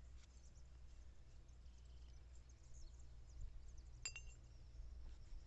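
A shard of glass gives a single short clink with a brief ringing about four seconds in, over a faint low hum.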